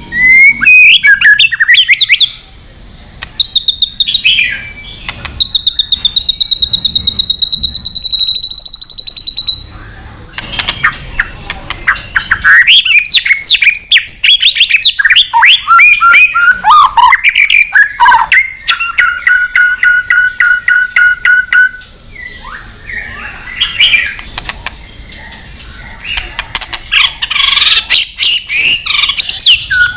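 White-rumped shama singing a long, varied song of loud whistled phrases, with a long held whistle early on and a fast run of repeated notes about two-thirds through, broken by short pauses.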